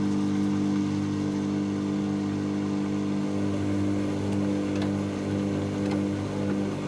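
Dyson Contrarotator CR01 washing machine spinning, with a steady motor hum made of several held tones and a few light ticks in the second half.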